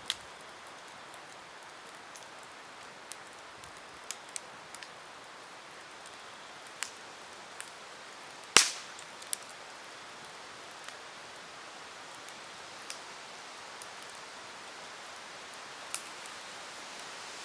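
Wood campfire burning with a soft steady hiss and scattered sharp crackles and pops, one much louder crack a little past halfway.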